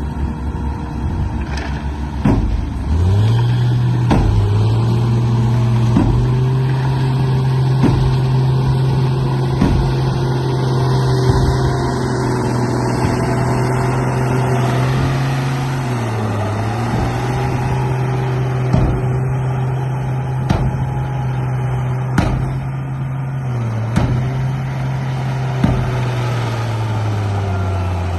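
Remote-control bulldozer running: a steady low drone with harmonics that rises about three seconds in, dips briefly twice, and drops near the end, with sharp clicks and knocks scattered throughout.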